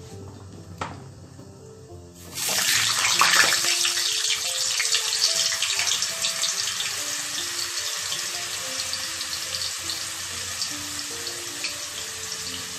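Cut potatoes hitting hot mustard oil in a kadai. The sizzle starts suddenly about two seconds in, loudest at first, then eases into a steady frying hiss.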